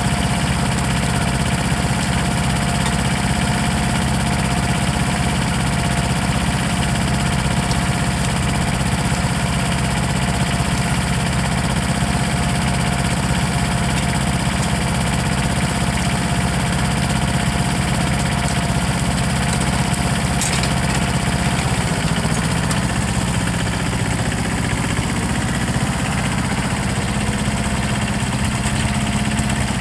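An engine running steadily at idle, with a low even hum; its note shifts slightly about 22 seconds in.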